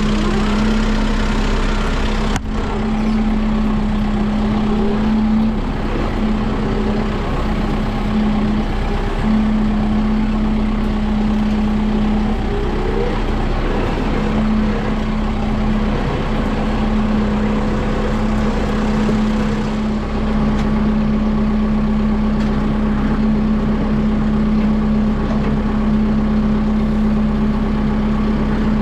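Kubota M6060 tractor's diesel engine running steadily at a constant speed with a steady hum, and one sharp knock about two seconds in.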